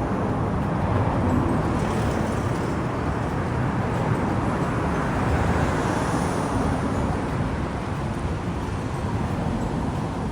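Steady city street traffic noise, with vehicles running past without a break.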